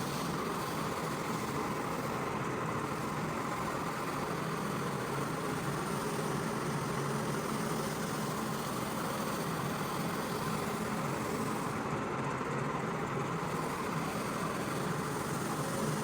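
A motor-driven rug-cleaning machine running steadily with a constant hiss, its level and pitch unchanging throughout.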